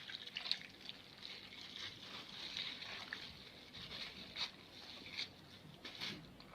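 Faint kitchen handling sounds: a few soft clicks and light rustling, scattered about a second apart at most.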